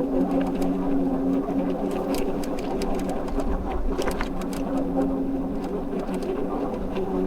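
E-bike motor whining steadily under pedal assist, with scattered clicks and rattles from the bike on a rough lane and a low rumble of wind on the microphone.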